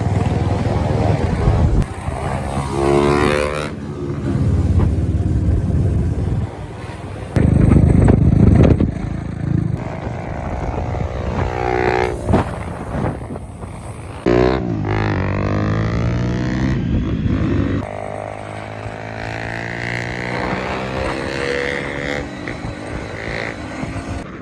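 Aprilia SX125's 125 cc single-cylinder four-stroke engine through an Akrapovic exhaust with the dB killer removed. It is revved and ridden, its pitch rising and falling again and again. The loudest run comes about a third of the way in.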